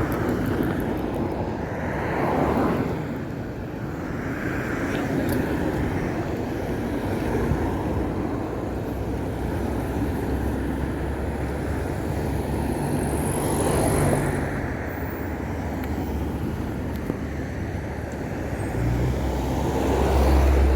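Road traffic: cars driving past close by one after another, louder as each one goes by, at a couple of seconds in, about two-thirds of the way through and near the end. A deep engine hum grows with the later passes.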